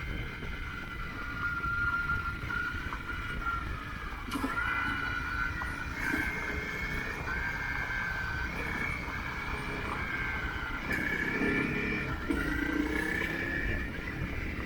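Motorcycle engine running under way, its whine changing pitch several times as the revs rise and fall, over a steady low rumble of wind and road noise.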